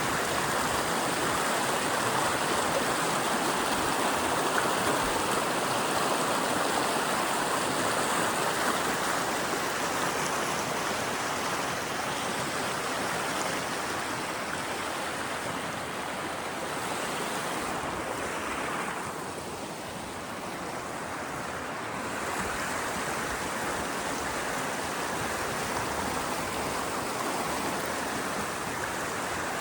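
Rushing water of a mountain stream, a steady noise that dips a little for a few seconds about two-thirds of the way through.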